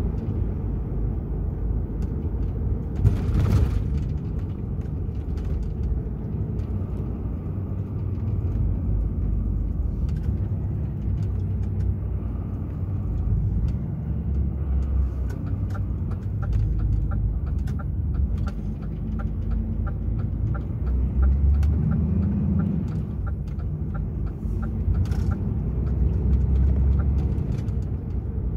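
DAF XF 480 truck's PACCAR MX-13 diesel engine running under way, a steady low rumble. There is a short hiss about three seconds in, and a run of quick regular ticks through the middle.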